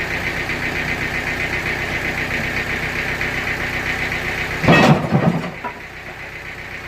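Sawmill machinery running with a steady, pulsing mechanical drone. About five seconds in comes a loud, rough rumbling clatter, and after it the machinery runs noticeably quieter.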